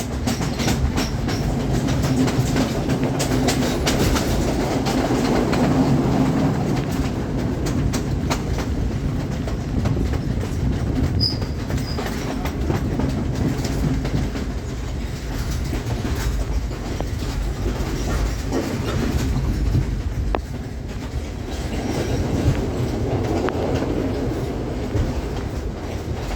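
Passenger express train running on the rails, with a steady low rumble and repeated clicks of the wheels over the track.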